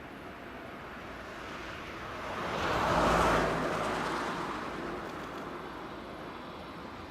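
A vehicle passing by, swelling to its loudest about three seconds in and then fading away.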